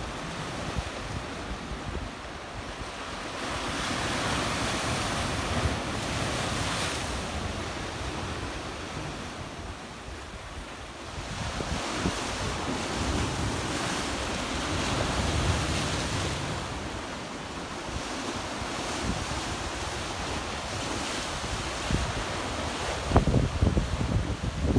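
Black Sea waves washing onto a rocky beach, the surf swelling and falling away every few seconds, with wind rumbling on the microphone.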